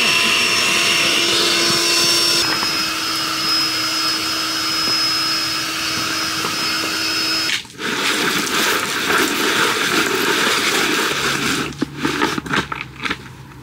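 Small electric air pump running steadily, with a change in its tone about two and a half seconds in and a brief dropout around seven and a half seconds. Near the end the sound turns uneven and choppy with clicks.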